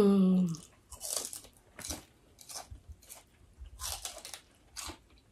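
Crisp crunching of a fresh lettuce leaf being bitten and chewed close to a clip-on microphone, about six separate crunches spread over a few seconds. A short hummed "mm" of enjoyment, falling slightly in pitch, opens it.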